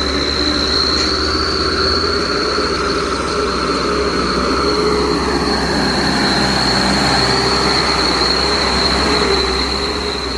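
Medium trucks running slowly in convoy, engines rumbling under a steady high-pitched squeal that holds throughout.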